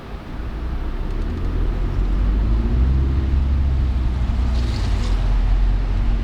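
Car driving through city streets: a low, steady road and engine rumble with wind buffeting the microphone, building over the first two seconds, and a brief hiss about five seconds in.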